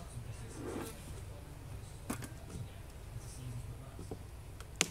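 Sharp clicks and knocks of wooden beehive frames and boxes being handled, a pair about two seconds in and a louder one near the end, over the steady low hum of a honeybee colony.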